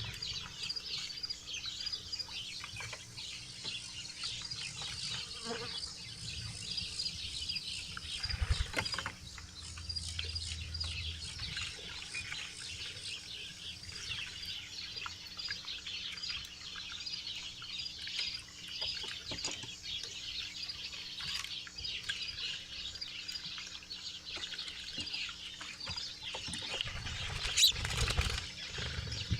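Many small songbirds chirping continuously at a backyard feeder, a constant chatter of short high chirps. A louder thump comes about a third of the way in and another near the end.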